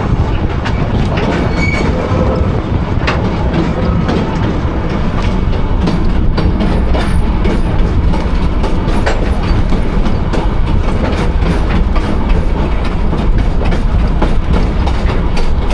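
A train running, heard from aboard a passenger car: a steady, loud rumble of wheels on the rails, with irregular clicks and knocks as the car rattles over the track.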